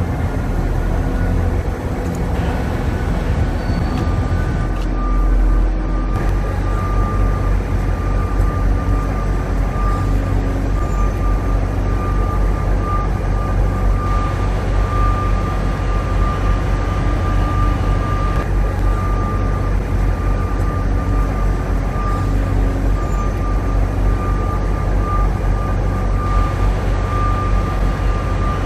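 Heavy diesel construction machinery running steadily with a deep rumble. A thin, high, steady whine joins about four seconds in.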